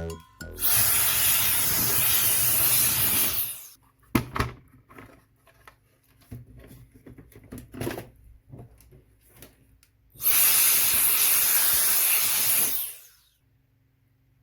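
Two bursts of loud pressurised spray hissing, each about three seconds long, with scattered light clicks and taps between them.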